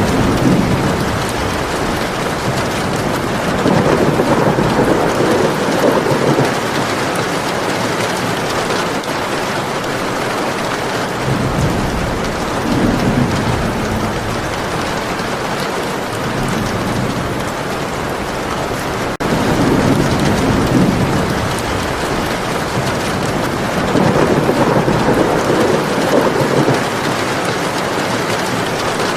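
Steady, heavy rainfall hissing, with rolling thunder that swells up and fades away several times.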